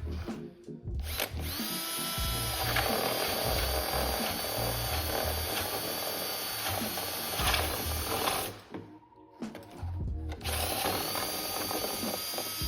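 Power drill spinning up and boring into the plastic of a standard car airbox, in two runs with a short pause about three quarters of the way through.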